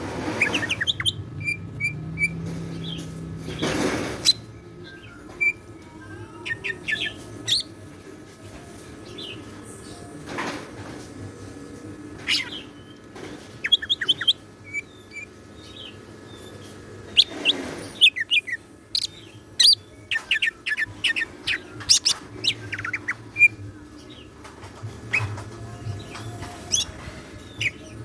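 Green leafbird (cucak ijo) singing in short, scattered chirps and quick trills with gaps between them, along with a few brief rustling bursts.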